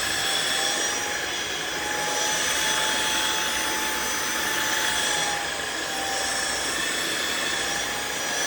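Riccar R70 wet/dry floor washer running over a hard floor: a steady motor whine over a rushing suction noise, drifting slightly up and down in pitch and loudness.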